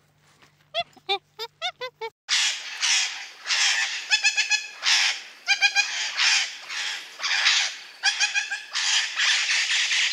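Blue-and-gold macaw squawking harshly, many loud rasping calls one after another. Before them, in the first two seconds, comes a quick run of short, clear, high-pitched calls.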